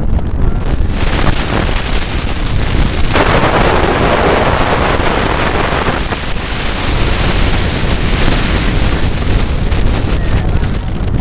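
Wind rushing over the microphone with the rumble of a moving car, and a louder surge of noise about three seconds in that lasts about three seconds.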